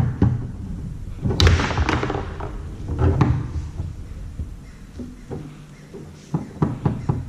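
Foosball being played on a Tornado table: a run of sharp knocks and thumps as the hard ball is struck by the men and the rods bang against the table, with louder clattering bursts about a second and a half in and again about three seconds in.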